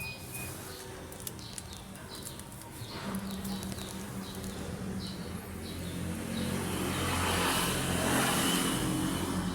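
A motor vehicle's engine hum, swelling louder in the second half as it goes past, with scattered short high chirps.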